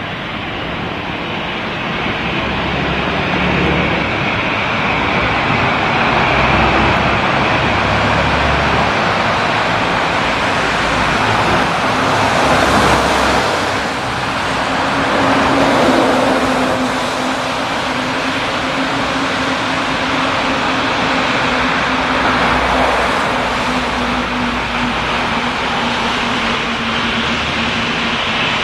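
Airbus A320-200 jet engines running close by: a steady rushing noise that swells around the middle, with a low steady hum coming in about halfway through.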